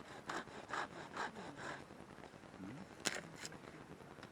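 Hand saw cutting firewood: about five even back-and-forth strokes over the first two seconds, then it stops. Two sharp cracks, close together, a little past three seconds in.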